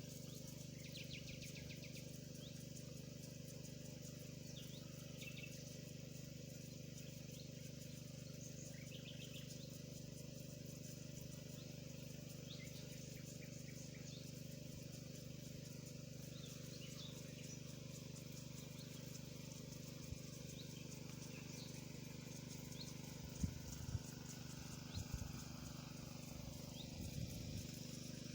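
Scattered short high bird chirps over a steady low hum, with a few sharp knocks near the end.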